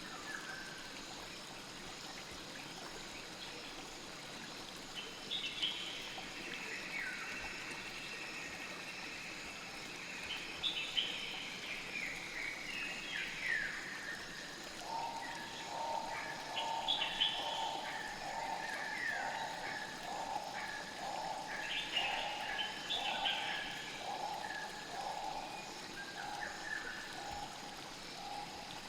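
Forest ambience: a steady rush of flowing river water with birds chirping on and off over it. From about halfway an animal's lower call repeats at an even pace, roughly one and a half times a second.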